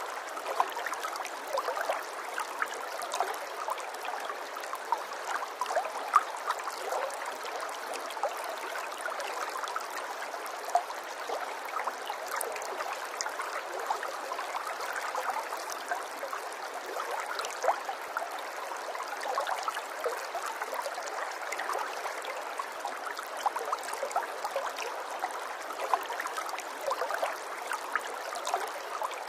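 Running water trickling and gurgling steadily, with a constant patter of small splashes and drips.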